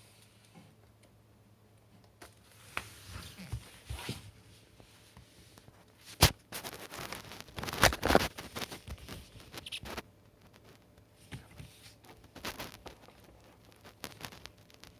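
Clicks, knocks and rustling of something being handled by hand, with no motor running. There is a sharp click about six seconds in, then a few seconds of busy rustling and knocking.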